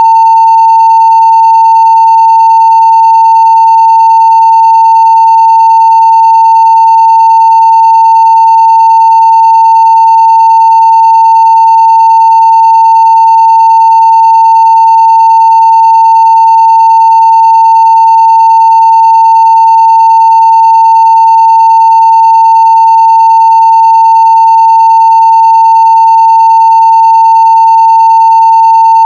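Steady 900 Hz sine-wave test tone at full-scale level (0 dB), one loud unbroken pitch.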